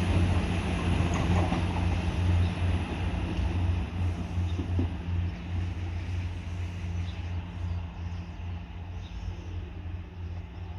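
Diesel train engine running with a steady low drone, growing gradually quieter through the clip.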